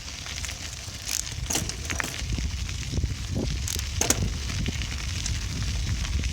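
Bicycle in motion: low rumble of wind and road on the microphone, with scattered sharp clicks and rattles from the bike.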